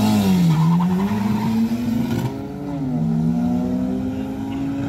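A car engine running hard at high revs, its pitch dipping and climbing. It drops sharply about two and a half seconds in, as at a gear change, then climbs again.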